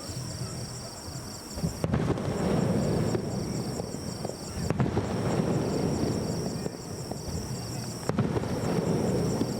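Aerial firework shells bursting: three sharp bangs about two, five and eight seconds in, each followed by a long rolling rumble. Insects chirp in a steady pulsing rhythm throughout.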